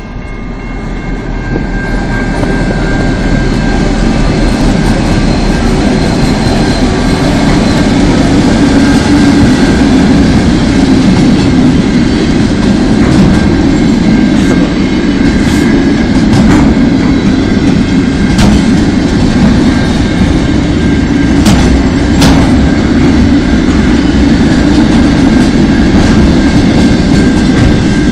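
A container freight train passes close by: its diesel-electric locomotives grow louder as they approach over the first few seconds, then the loaded container flat wagons roll steadily past, with a few sharp clanks in the middle.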